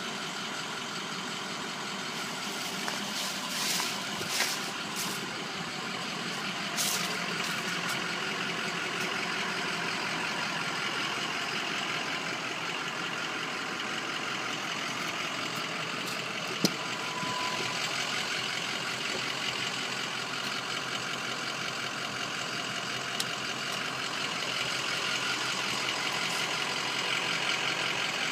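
Ford F-250's diesel engine running steadily, with a sharp click and a brief beep about two-thirds of the way through.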